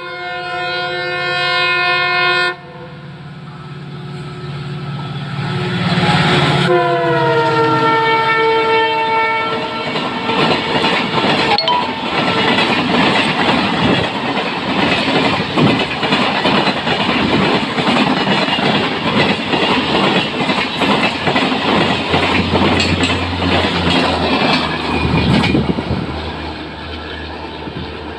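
Diesel locomotive's multi-tone horn blowing, cut off abruptly, then blown again as the engine passes, its pitch dropping. Then the coaches run past at speed with a loud rush and rattle of wheels over the rails, easing off near the end.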